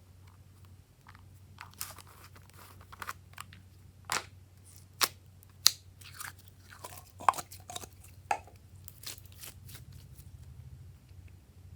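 Irregular sharp crunches and crinkles, a dozen or so spread unevenly with the loudest about halfway through, over a faint steady low hum.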